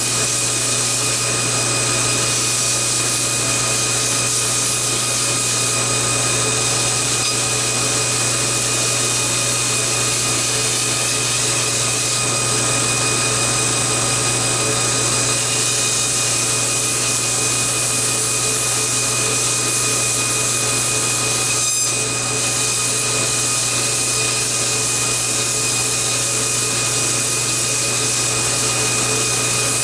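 TW90 belt grinder running steadily with a 320-grit scalloped belt, sanding a knife handle on the slack part of the belt, with a steady motor hum and whine. The sound dips briefly about two-thirds of the way through.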